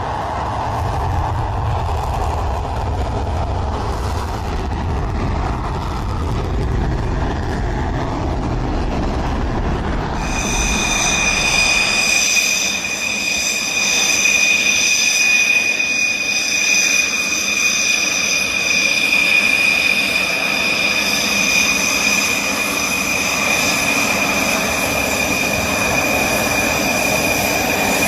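Fighter jet engines: a broad rushing roar, then from about ten seconds in a steady high-pitched whine of several tones that holds to the end as the low rumble fades.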